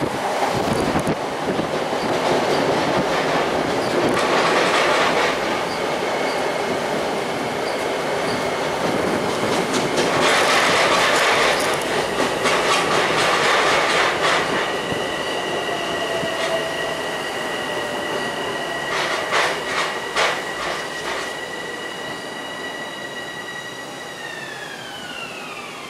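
LIRR M7 electric multiple-unit train running into the station over steel rails, its wheels rumbling and clicking over rail joints. A high whine holds steady, then falls in pitch near the end as the train slows to a stop.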